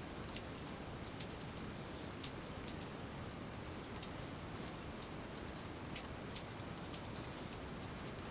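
Steady rainy-season rain falling, a constant soft patter with scattered individual drops ticking sharply through it.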